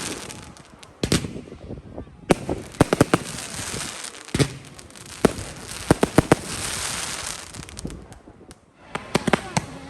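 Fireworks display: sharp bangs from exploding aerial shells come in quick clusters, with crackling between them.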